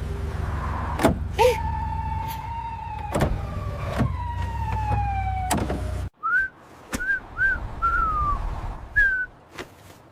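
Cartoon sound effects: a steady low vehicle rumble with several sharp knocks and a slowly falling whistle-like tone. It cuts off suddenly about six seconds in, and a handful of short, high squeaky chirps follow.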